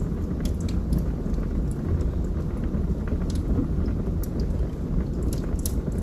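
Wood fire burning in a fireplace: a steady low rumble with sharp crackles and pops scattered through, a few louder pops near the end.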